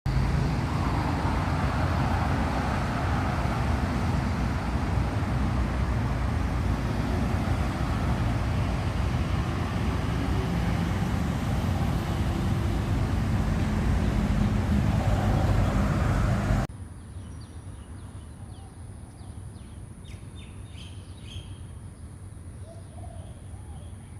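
A loud, steady rushing noise with no distinct events fills the first two-thirds, then cuts off abruptly to a quieter background. In the quieter part there is a run of short, harsh chattering calls from a Javan myna, with a brief pitched call near the end.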